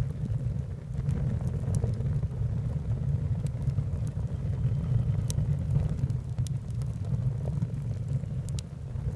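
Wood fire burning: a steady low rumble with scattered sharp crackles and pops from the burning wood.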